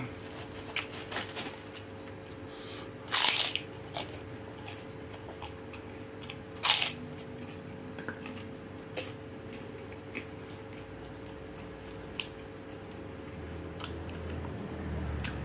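A man chewing and smacking his lips while eating rice and shrimp by hand, with scattered small clicks and two louder, short crunchy smacks about three and seven seconds in. A steady faint hum runs underneath.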